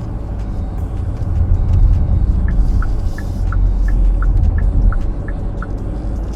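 Road and engine noise inside a moving car's cabin: a steady low rumble. Midway through comes a quick run of about ten short high blips, alternating between two pitches.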